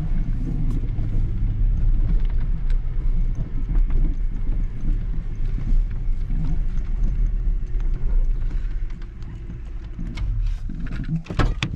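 Pickup truck running down the road, a steady low engine and road rumble that dies down about ten seconds in, followed by a few sharp knocks near the end.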